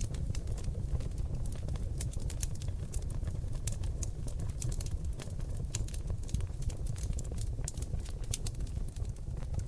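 Seasoned oak logs burning in a fireplace, crackling and popping: many quick, irregular sharp pops over a steady low rumble of flame.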